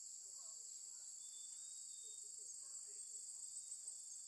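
A steady, high-pitched chorus of insects such as crickets or cicadas, with faint scattered short sounds beneath it.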